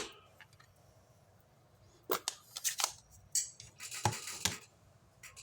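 Stamping supplies being handled on a craft desk: a run of sharp plastic clicks and taps starting about two seconds in, with a brief rustle among them, as an ink pad is picked up and used.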